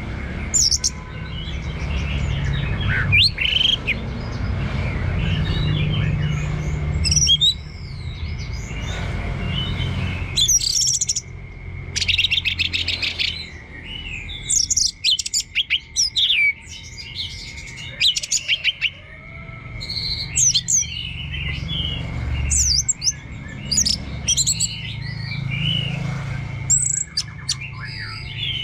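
Orange-headed thrush singing a long, continuous run of varied whistles and quick chirps, the unbroken 'teler' style of song. A steady thin tone and a low rumble sit underneath at times.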